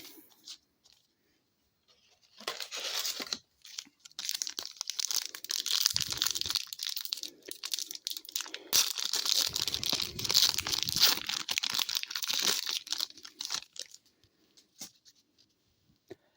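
A hockey card pack wrapper being torn open and crinkled by hand: a dense crackling rustle that starts about two and a half seconds in, pauses briefly, and goes on until near the end.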